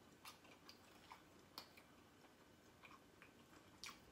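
Near silence with faint, irregular clicks and smacks of someone chewing food.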